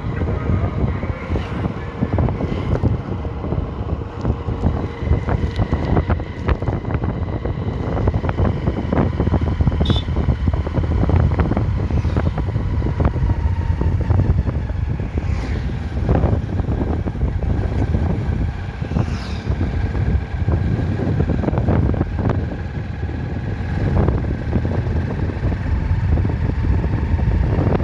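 Riding motorcycle: wind buffeting the microphone over the steady run of the engine and tyres, heavy in the low rumble.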